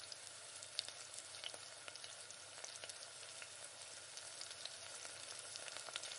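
Diced potatoes frying in oil and tomato-onion masala in an aluminium pressure cooker: a faint, steady sizzle with scattered small crackles.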